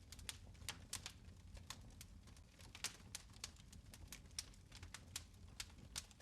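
Fire crackling in a fireplace: irregular sharp pops and snaps, a few each second, over a low steady rumble.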